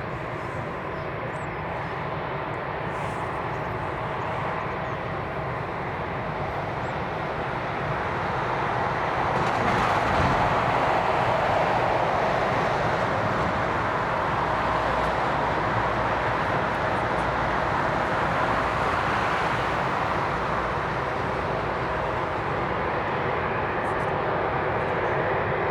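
Jet airliner's engines passing close by: a broad rush with a steady whine that swells to its loudest about ten seconds in and stays loud.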